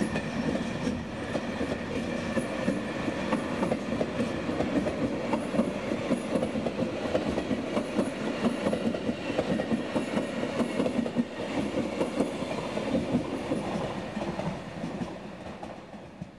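Zentralbahn push-pull train with a Class 101 electric locomotive running along the platform: wheels clicking over rail joints amid steady rolling noise, fading as the train draws away near the end.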